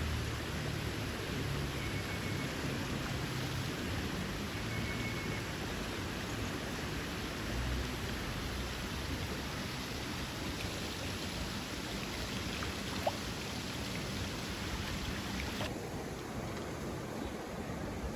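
Creek water running steadily over rocks, an even rushing hiss; the higher part of the hiss falls away suddenly near the end.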